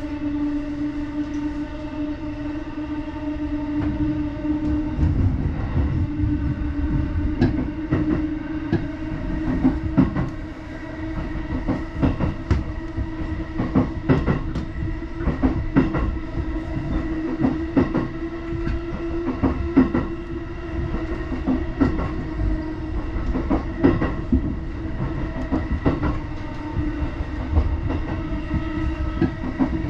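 Ride inside a JR Chuo Line electric commuter train running between stations: a steady motor whine that creeps slowly up in pitch over the rumble of the car. From about five seconds in, wheels clack over the rail joints in an uneven patter of knocks.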